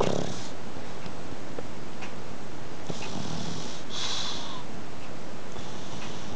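Pug snoring: hissing snore breaths at the start, twice around the middle and again near the end, over a steady background hiss.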